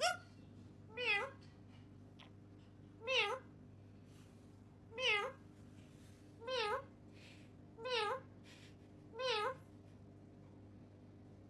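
Seven short meows, each a quick wavering call, repeated about every one to two seconds.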